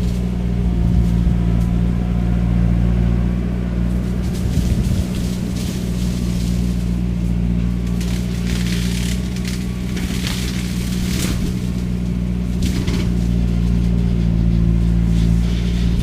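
Skid steer engine running steadily at high speed while its shredder head chews through cane. A run of cracks and snaps through the middle is the cane being broken up.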